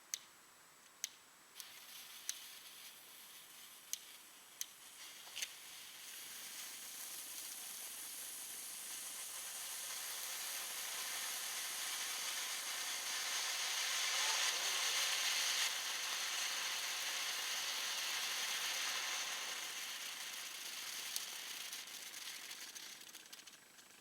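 Ground fountain fireworks burning: a few sharp clicks early on give way to a hissing spray of sparks that builds steadily, is strongest in the middle, and dies away near the end.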